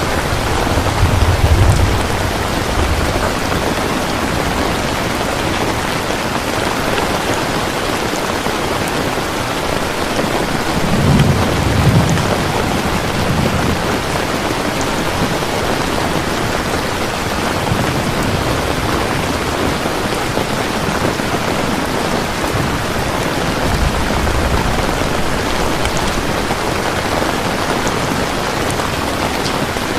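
Steady heavy rain, with low rumbles of thunder swelling about a second in and again about eleven seconds in, and a fainter one later on.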